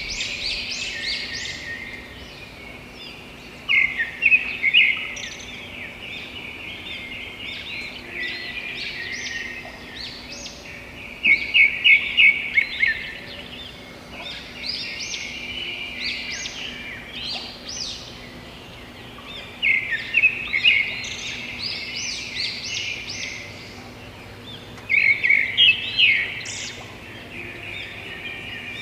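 A chorus of songbirds chirping and calling without pause. Loud bursts of rapid chirping come four times, each lasting a second or two.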